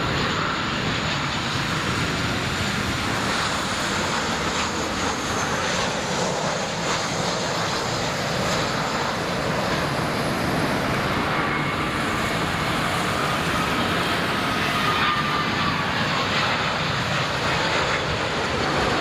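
Jet airliner engines running as the aircraft passes: a steady, dense engine noise with a faint whine that slowly bends in pitch in the second half.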